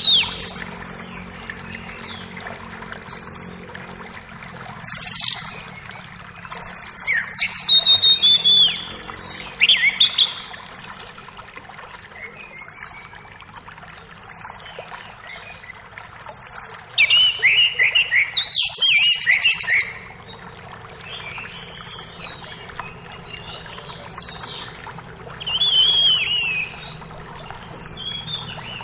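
Songbirds calling in a forest: one repeats a short, very high note about every second and a half, while others break in with quick falling chirps and a dense trill about two-thirds of the way through. Underneath runs the soft, steady rush of a flowing creek.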